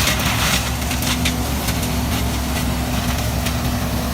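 An engine running steadily at an even pitch, with a few short sharp clicks in the first second or so.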